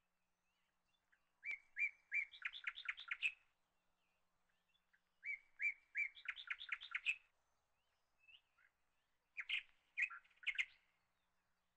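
A small songbird chirping in three phrases a few seconds apart. Each phrase is a few separate high chirps that run into a quick string of notes.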